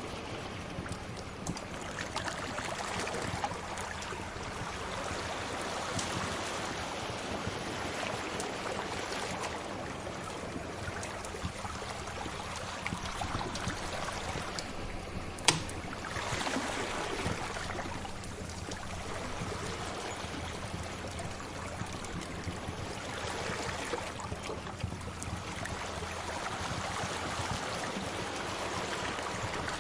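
Sea waves washing in and out in slow swells, with small crackles of a wood fire, and one sharp loud pop about halfway through.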